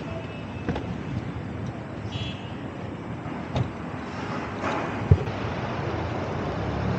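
Steady rumble of vehicle traffic with some wind on the microphone. A single sharp knock comes about five seconds in.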